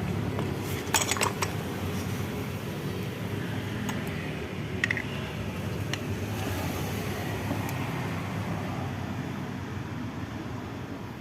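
Light metallic clicks and clinks from handling button pin parts at a pin-making press: a quick cluster about a second in, then a few single clicks. A steady low hum runs underneath.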